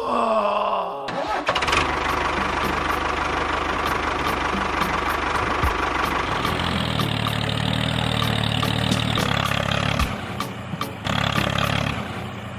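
An engine starting with a falling whine, then running steadily, with a lower idling hum settling in about halfway through.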